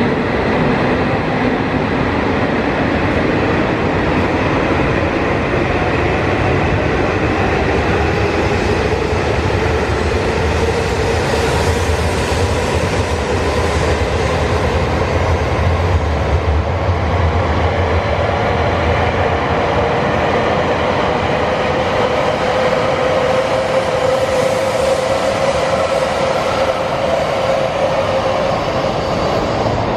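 Tohoku Shinkansen train pulling away along the platform and gathering speed, its traction motors whining in a slowly rising pitch over a steady rolling rumble of wheels and cars passing close by.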